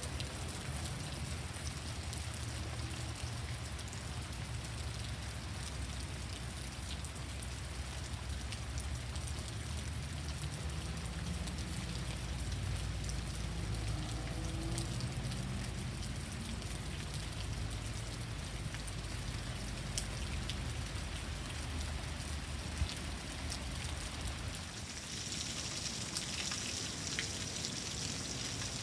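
Heavy rain pouring down steadily, drops spattering on surfaces. A low rumble runs under it and drops away about 25 seconds in, where the hiss of the rain gets brighter.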